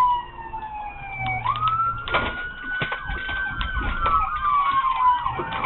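Police car siren sounding in pursuit: a slow wail that falls, sweeps back up about a second and a half in and slowly falls again, then switches to a fast yelp near the end. A few sharp clicks and knocks come about two seconds in.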